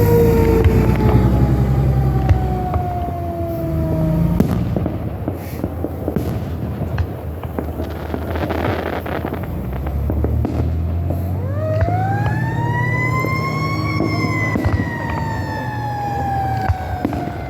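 Siren wailing: its pitch slowly falls, then about twelve seconds in it climbs and falls away again, over a low rumble with a few sharp cracks.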